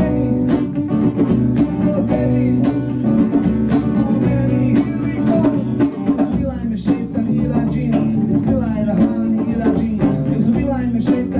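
Live band playing a song: guitar with a drum kit keeping a steady beat.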